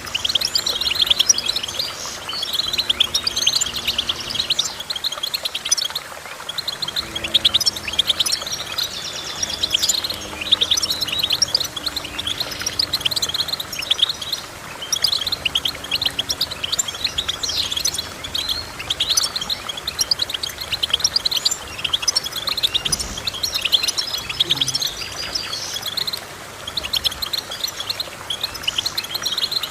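Songbird song: a fast, continuous stream of high chirps and trills.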